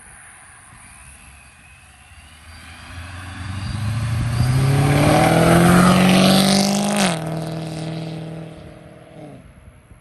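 A car accelerating hard past, its engine note climbing in pitch and loudness for a few seconds. About seven seconds in the pitch drops sharply, and the engine fades away.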